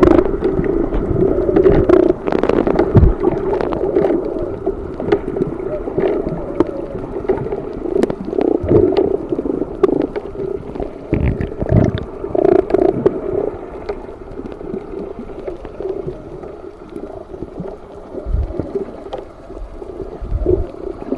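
Muffled underwater sound of moving seawater, a fluctuating low rumble with scattered clicks and knocks, quieter in the second half.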